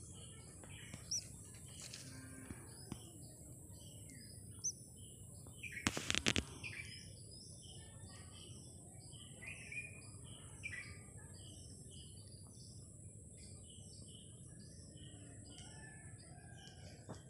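Small birds chirping in many short, quick calls throughout, over a steady high-pitched hiss. A brief burst of knocks and rustling about six seconds in is the loudest sound.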